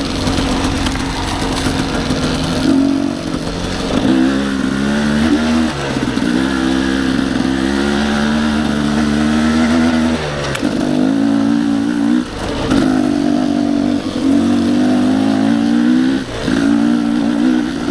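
Dirt bike engine running hard under load on a trail climb. The throttle is opened and closed in stretches of a couple of seconds, so the revs climb, hold, then briefly drop again.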